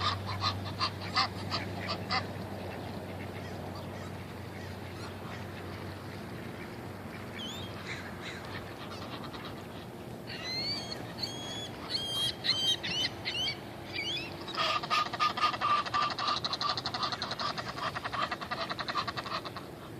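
Ducks and geese calling: a fast run of repeated calls at the start, then sparser, higher, rising calls, and a long fast run of calls again in the last quarter.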